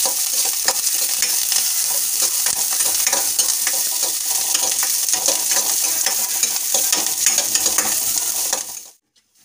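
Chopped onion, green chilli, ginger and curry leaves sizzling in hot oil in a kadai, stirred with a steel spatula that scrapes and clicks against the pan. The sound cuts off abruptly near the end.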